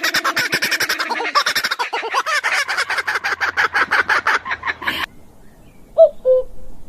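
A flock of birds chattering, with rapid overlapping calls many times a second, which cuts off abruptly about five seconds in. About a second later a single bird gives a short two-part call: a quick swooping note followed by a lower held note.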